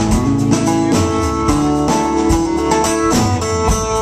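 Live band playing an instrumental passage between sung verses: guitars holding chords and notes over a drum kit keeping a steady beat.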